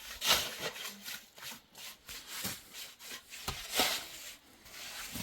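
A series of irregular scraping strokes, the loudest about a third of a second in and again near four seconds in.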